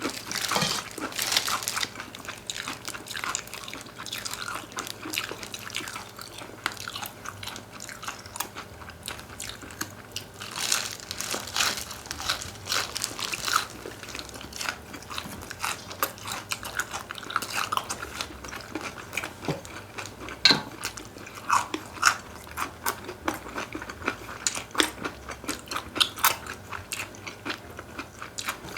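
Close-miked eating sounds: chewing and crunching on chicken, with many short crackles and clicks throughout.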